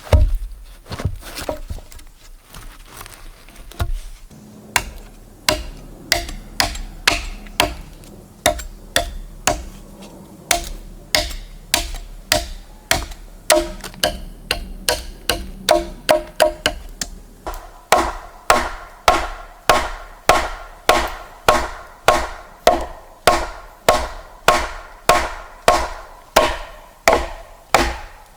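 Rhythmic chopping: a blade striking wood about twice a second, each blow with a short ring. The blows grow steadier and brighter in the second half.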